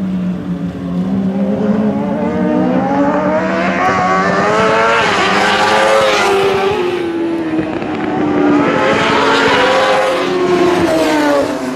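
Racing superbike engines at high revs, the note climbing and then falling away twice as the bikes accelerate and pass.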